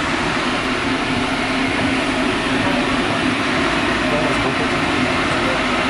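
Passenger train running: a steady rumble and rushing noise with a constant low hum.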